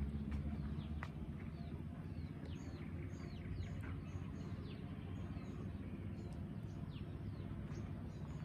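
Small birds chirping outdoors, a steady run of short, high, falling chirps, over a steady low rumble.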